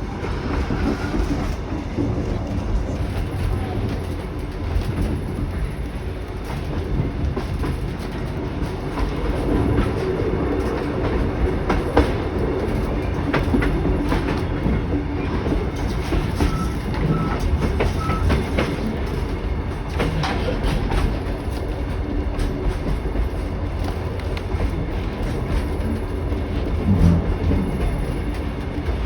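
Narrow-gauge passenger carriages of a diesel-hauled train rolling along the track: a steady rumble with the wheels clicking over the rail joints.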